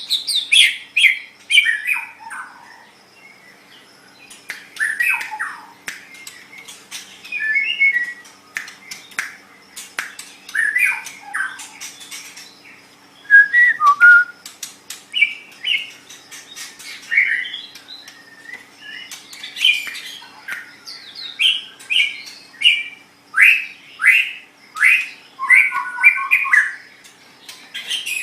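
White-rumped shama (murai batu) singing: a run of short, varied phrases of quick whistled sweeps and notes, with sharp clicks between them and a short pause a few seconds in.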